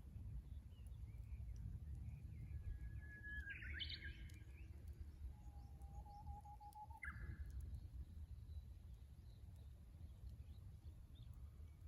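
Japanese bush warbler singing its 'hoh-hokekyo' song twice, each a long held whistle ending in a quick rising flourish, the second pitched lower, over a steady low rumble.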